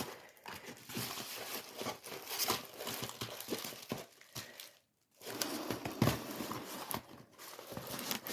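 Packaging crinkling and rustling in irregular handling noises, with a few sharp crackles, as a craft kit is unwrapped; it stops briefly about five seconds in.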